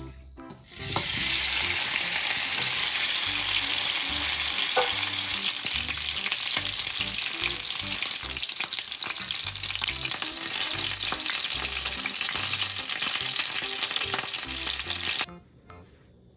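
Chicken wings shallow-frying in hot oil in a non-stick frying pan on medium heat: a loud, even sizzle that starts suddenly about a second in as the wings go into the pan, with an occasional sharp pop of spattering oil, and cuts off suddenly about a second before the end.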